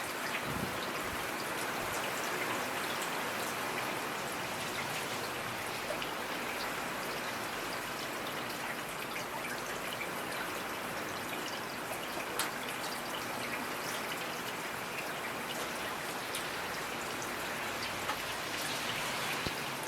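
Steady rainfall: a dense, even hiss of rain with individual drops ticking here and there, one a little louder about twelve seconds in.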